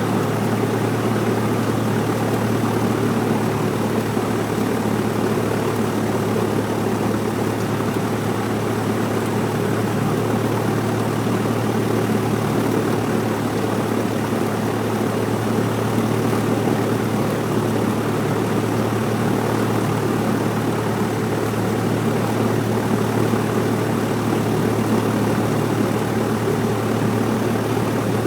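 Cessna 172's piston engine and propeller running at a steady speed, heard from inside the cabin as an even, unchanging drone.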